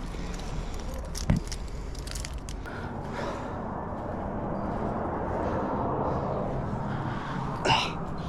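Rustling and scraping of a climber moving on rock, with two sharp clicks, about a second in and near the end.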